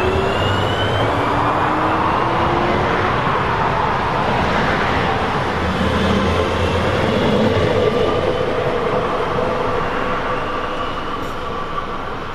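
Red electric multiple-unit regional train running past close by: a steady rumble of wheels on the rails, with a motor whine rising in pitch.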